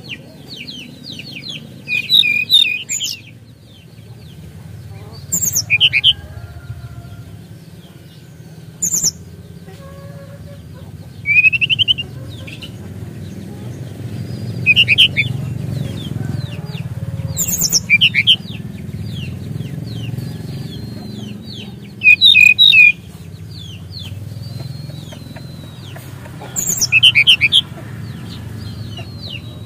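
SRDC (sikatan rimba dada coklat, a jungle flycatcher) singing: short bursts of quick, high, falling chirps repeated every few seconds, with a softer run of chirps between bursts, over a steady low background noise.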